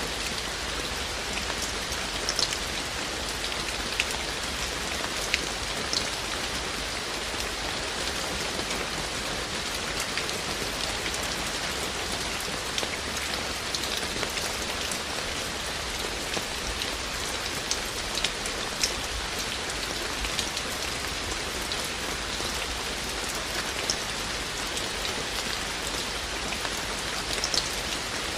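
Steady rain falling, an even hiss with occasional louder single drops ticking out of it every few seconds.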